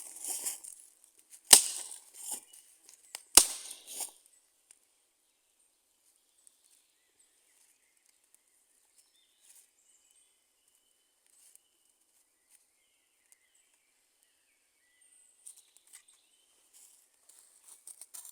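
Dry wood snapping and crackling: two loud sharp snaps about two seconds apart, each followed by a short crackle, then only faint scattered ticks until a cluster of light crackles near the end.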